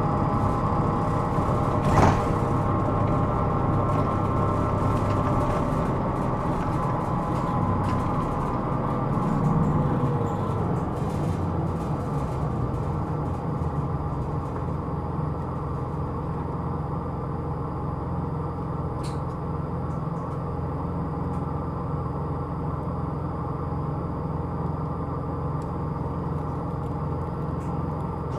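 Running sound inside a Hino Rainbow II (SDG-KR290J1) city bus on the move: steady diesel engine and road noise. A sharp click comes about two seconds in, and the engine's tone falls away about ten seconds in as the bus eases off, leaving a steadier, lower drone.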